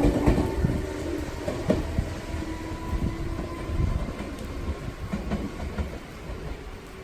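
Meitetsu 6800 series electric train pulling away and receding, wheels knocking over rail joints while its motor tone fades and the sound dies down.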